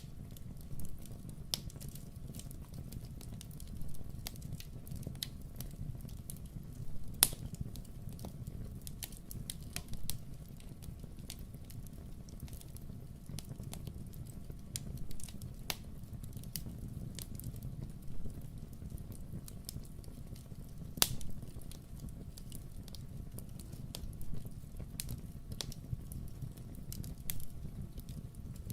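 Wood fire in a fireplace crackling, with scattered sharp pops and snaps over a steady low rumble; the loudest pops come about seven seconds in and again about twenty-one seconds in.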